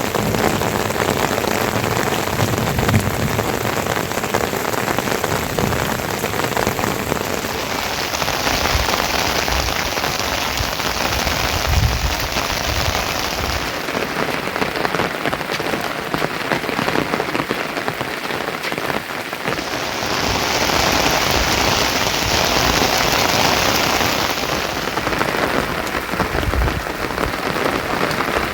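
Rain falling steadily on surfaces, a dense even patter that swells heavier twice, about a third of the way in and again past the middle, with a few short low bumps.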